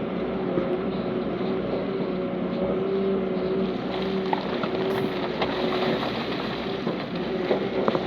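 Heavy diesel earthmoving machinery running steadily under load, a constant engine drone with a held whine on top, and a few short knocks near the end.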